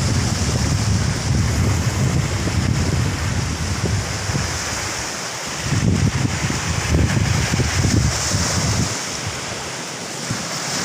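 Strong wind buffeting the microphone in heavy gusts over the steady hiss of rough surf breaking on the beach; the rumbling gusts ease about nine seconds in, leaving mostly the surf.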